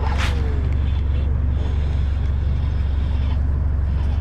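Boat motor running steadily: an even low hum that does not change.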